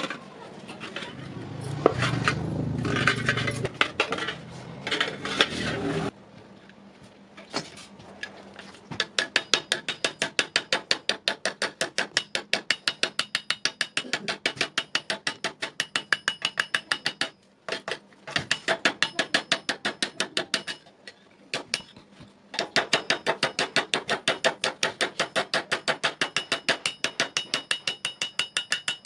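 Hammer striking iron on an anvil in rapid, even blows, about five a second, each with a metallic ring, in three long runs with short breaks. A louder rushing noise fills the first six seconds.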